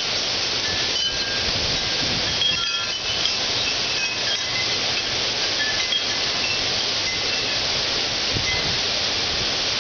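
Heavy thunderstorm rain pouring down as a steady, dense hiss, with scattered brief high tinkling notes over it.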